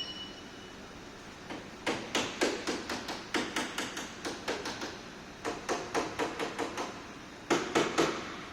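Hammer striking a car's front-end bodywork in quick runs of blows, about three a second, with the three hardest blows near the end.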